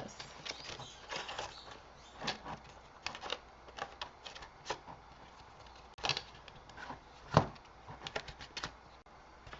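Irregular light taps, clicks and rustles of layered cardstock pieces being handled and pressed into a craft frame, with one louder knock about seven seconds in.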